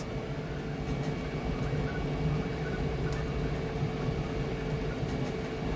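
Flashforge Adventurer 5M Pro 3D printer running a fast print: a steady mechanical hum with a wavering low whir as the print head moves.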